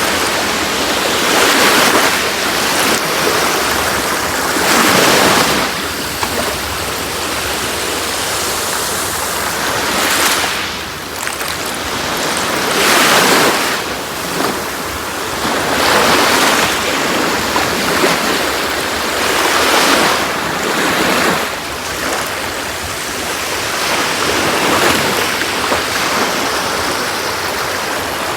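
Sea waves washing onto a beach: a steady rush of surf that swells and eases every few seconds.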